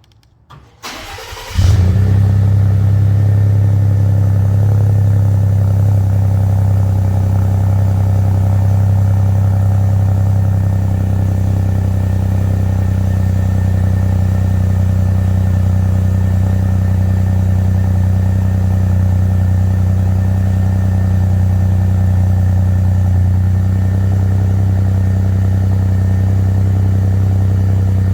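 Cold start of a Ford F-150's 2.7-litre EcoBoost twin-turbo V6, exhausting through a Flowmaster FlowFx muffler with the resonator deleted. A brief crank catches about a second and a half in, then the engine settles into a loud, steady idle.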